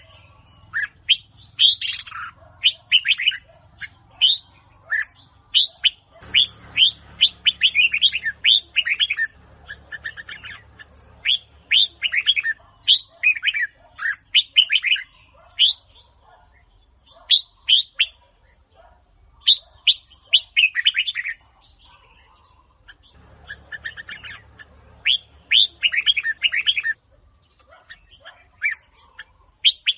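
Red-whiskered bulbul of the Huế type singing: fast runs of short, clear whistled notes, repeated phrase after phrase with brief pauses between them.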